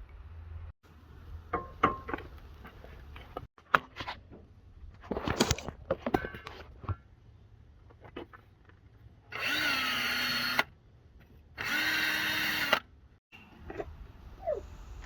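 A handheld power tool, a drill or driver, runs in two bursts of about a second each with a motor whine, after several seconds of scattered clicks and knocks of tools and parts.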